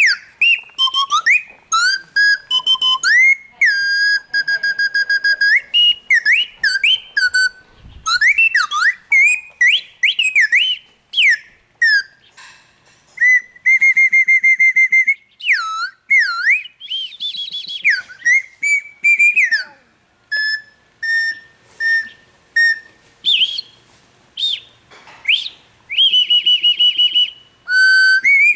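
A hand-held bird-call whistle blown to imitate birdsong: a long run of short chirps and swooping, sliding notes, broken by a few held notes that trill rapidly.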